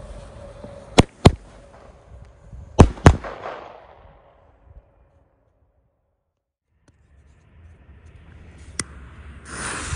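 Helios Double Strike F2 shell tubes firing: two pairs of sharp, loud bangs about a second and a half apart, the bangs in each pair about a third of a second apart, with crackle fading after the second pair. A sudden silent gap follows about five seconds in.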